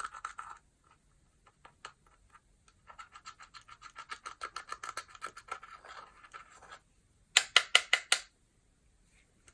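Clear slime being worked by hand, making rapid sticky clicking and popping sounds, about eight clicks a second, with a pause in the middle. Near the end comes a short run of louder, sharper pops.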